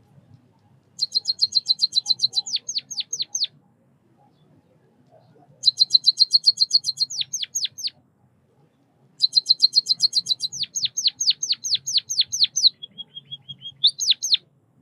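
White-headed munia singing in three bouts: each is a fast run of high notes that ends in a string of quickly falling notes. The last and longest bout closes with a brief, softer, lower trill and two rising notes.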